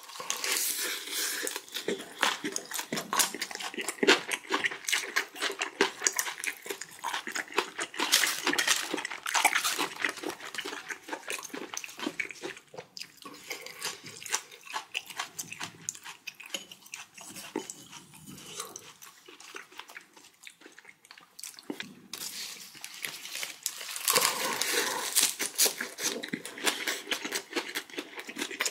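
Close-miked chewing of leaf wraps of raw yellowtail and flounder sashimi in perilla and lettuce leaves: crisp, wet crunching and smacking of the mouth. The chewing goes quieter for a few seconds about two-thirds through, then comes louder again near the end.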